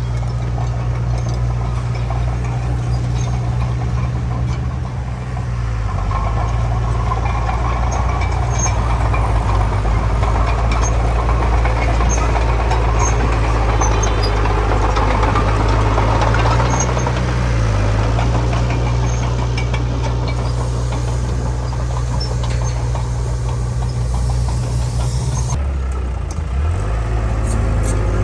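Heavy diesel engine of earthmoving machinery running steadily, its pitch dipping briefly twice. A rough rushing, clattering noise rises over it through the middle of the stretch and then fades.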